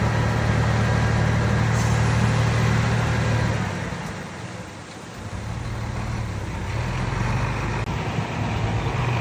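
Heavy diesel engine of earthmoving machinery running steadily. Its sound falls away about four seconds in, then builds back up over the next few seconds.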